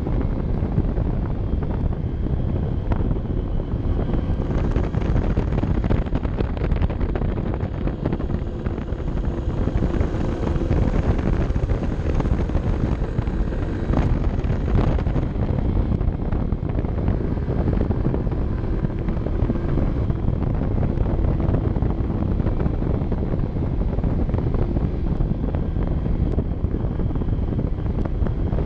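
A Honda CB 125 F's single-cylinder four-stroke engine running on the move, under steady wind rush on the onboard camera's microphone.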